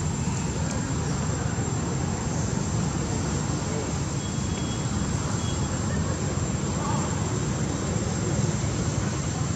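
Steady low rumbling noise with a constant thin high-pitched whine above it.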